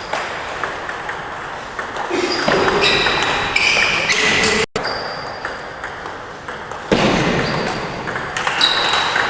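Table tennis balls clicking sharply off bats and tables in a hall, many short hits with a brief high ring, with voices in the background.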